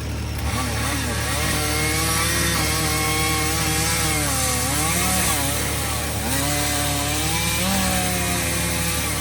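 Chainsaw cutting through wood, its engine note dipping under load and picking back up several times, over the steady low hum of a machine idling.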